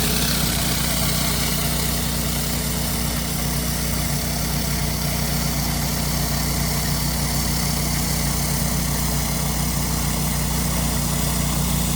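An 8 GPM pressure washer's engine running steadily, with an even hiss over it.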